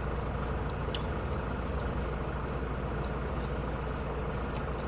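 Steady low machine hum with a few faint, light clicks over it.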